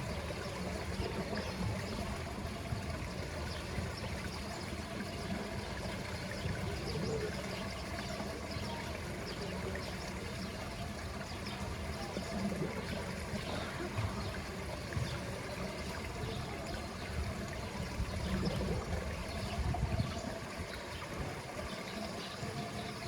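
Pool water trickling steadily.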